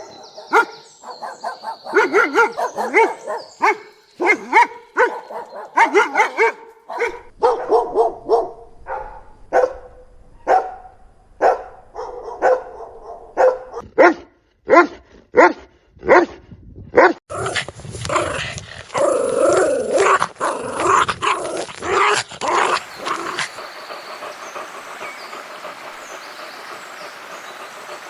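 Puppies barking in a long string of short, sharp barks, one to several a second, that stop about four seconds before the end, leaving a faint steady hiss.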